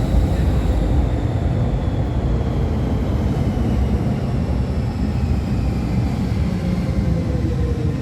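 MTR M-Train metro running into the station: a steady low rumble of wheels on track, with a faint motor whine that slowly falls in pitch as the train slows.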